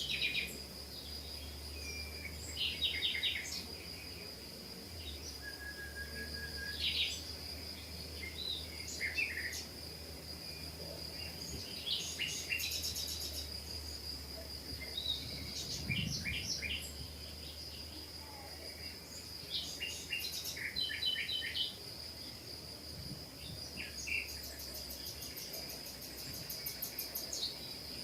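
Small birds chirping and calling in short, scattered bursts over a steady high-pitched tone like an insect's, with a low hum underneath.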